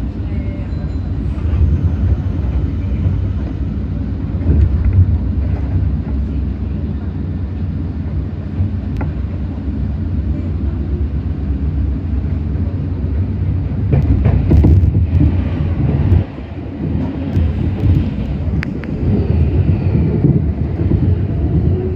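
Nankai 7100 series resistor-controlled electric train running, heard from inside the car: a steady low rumble of wheels and running gear on the rails, with a short dip in level about sixteen seconds in.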